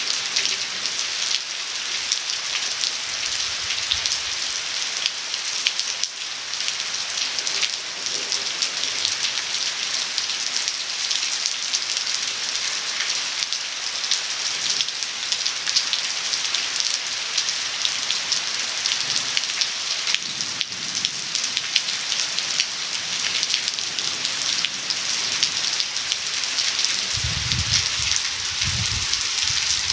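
Rain falling onto a cement-plastered surface: a dense, steady patter of countless drops. A faint low rumble comes in near the end.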